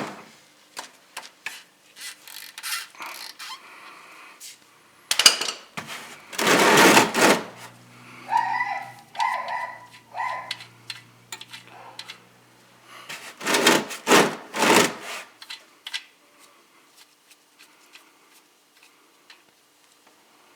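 Hand tools and the drain plug being worked under a 2014 Chevy Malibu to drain its engine oil: scattered clicks, scraping and rubbing, with two louder noisy stretches about five and fourteen seconds in.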